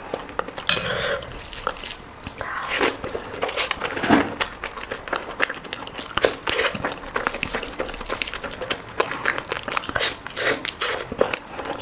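Close-miked eating sounds of a curry meal: wet chewing, lip smacks and quick mouth clicks, irregular and continuous, with a few louder bites.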